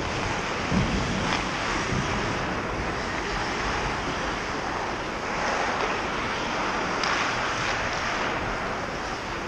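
Ice hockey rink din picked up by a goalie's GoPro: a steady rushing noise with a few faint knocks about one and two seconds in.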